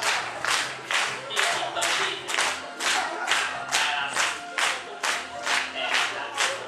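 Upbeat Japanese idol pop song with group vocals, and hand claps sharply on the beat, about two a second.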